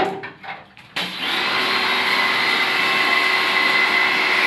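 A few light knocks, then about a second in a small electric high-pressure washer starts and runs steadily with a high whine, used to wash the air conditioner's parts.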